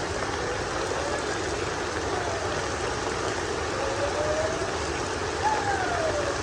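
Steady hiss of heavy rain falling. A few faint gliding calls rise and fall over it, the clearest one falling in pitch about five and a half seconds in.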